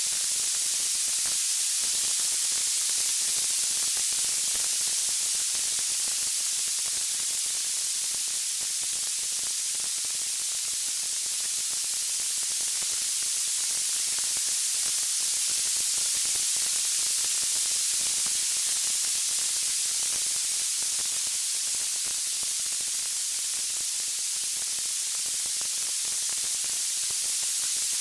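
Steady, bright white-noise hiss that holds even throughout, with no audible crackles or music.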